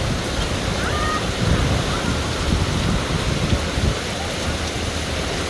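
Heavy rain pouring down in a dense, steady hiss, with irregular low thumps through the middle.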